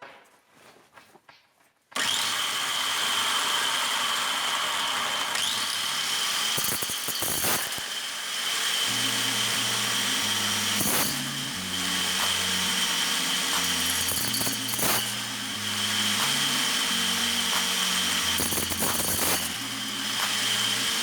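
Electric hand-held angle grinder switching on about two seconds in and running steadily with a high whine, stripping kernels off corn cobs, with brief harsh bursts every few seconds. Background music with a low stepping bass line joins about nine seconds in.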